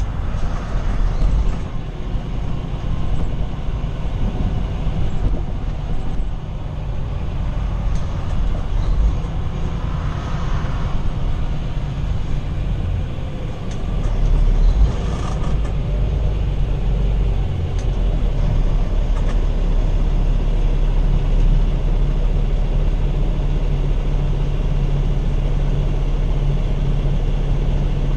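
Semi truck driving at road speed, heard inside the cab: a steady low engine drone with road and wind noise.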